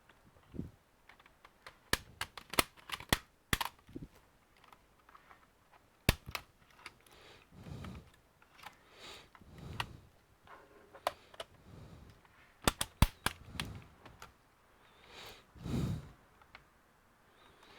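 Irregular sharp clicks and taps from a Dell Inspiron 5558 laptop being taken apart, as its small screws and plastic parts are handled, with softer low rubbing sounds in between.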